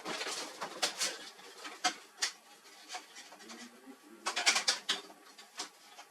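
Hands working on laser printer parts: a series of sharp clicks and knocks with short scraping sounds, loudest in a quick cluster about four to five seconds in.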